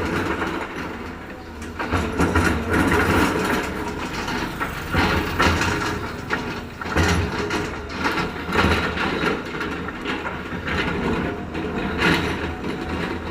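Heavy road-construction machinery working: a diesel engine's steady low drone under irregular clanks and scraping.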